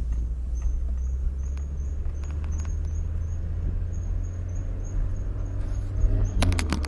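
Car brake squeak chirping in a steady rhythm, about three high-pitched squeaks a second tied to wheel rotation, over the low rumble of the car driving. The chirps drop out for the last couple of seconds, where a short cluster of sharp clicks sounds. Worn brake pads are the cause; new pads cured it.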